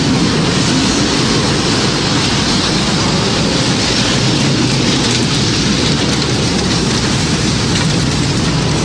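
Tornado storm sound effect: a loud, steady roar of wind and heavy rain.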